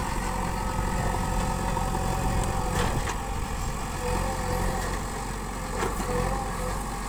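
Diesel engine of a JCB 3DX Super backhoe loader running steadily, with two brief knocks about three and six seconds in.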